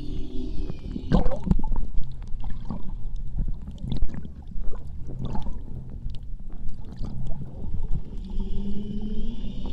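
Muffled underwater sound of water moving and gurgling, with a constant low rumble and scattered crackles.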